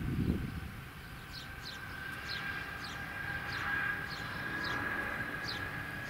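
A bird calling repeatedly with short, high, downward-sliding chirps, about nine in six seconds, irregularly spaced. Underneath is a faint steady whine, with a gust of wind on the microphone at the very start.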